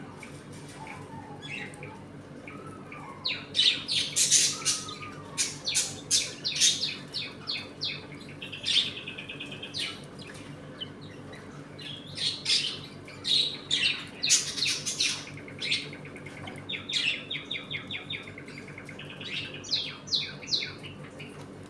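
A flock of budgerigars chirping and chattering in quick, squeaky runs of notes, with occasional squawks, over a steady low hum.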